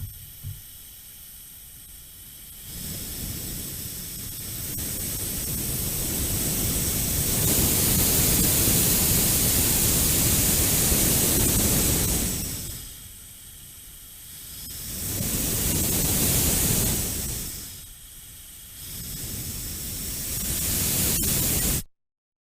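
Hiss of gas escaping from a leak, swelling and fading several times, loudest around the middle, then cutting off suddenly near the end.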